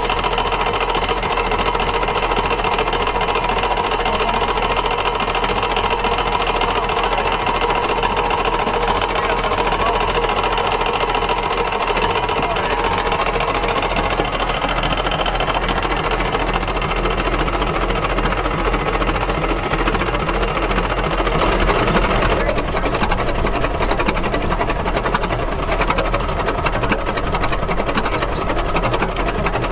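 Antique gas engine running with a fast, steady mechanical clatter.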